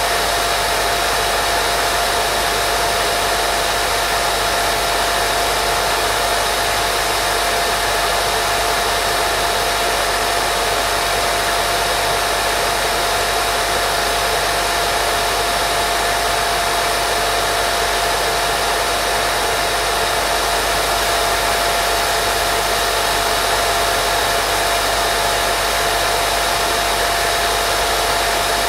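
Steady white noise for baby sleep, an even hiss with a faint steady whine in it, unchanging throughout.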